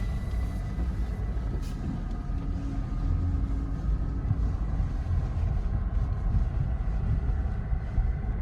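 Jeep SUV driving, with a steady low rumble of engine and tyres.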